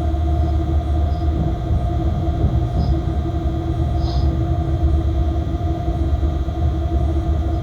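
Freight locomotive running, heard from inside its cab: a steady low rumble with a constant two-note hum. A few faint, brief high chirps come through in the first half.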